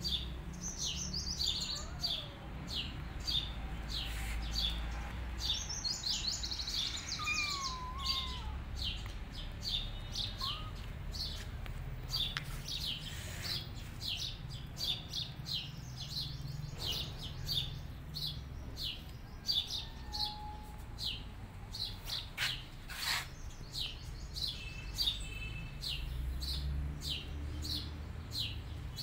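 Small birds chirping over and over, short high chirps about two or three a second, over a steady low rumble.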